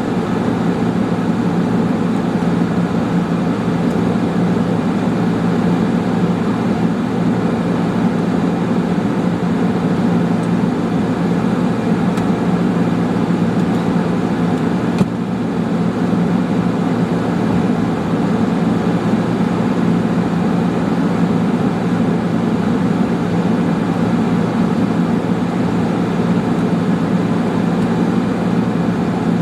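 Steady road and engine noise heard from inside a moving car, with a constant low drone.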